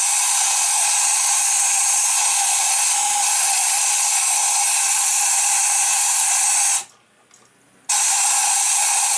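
Compressed air hissing steadily from an air blowgun on an air hose, blowing dirt out around the spark plug holes. It stops for about a second near the end, then starts again.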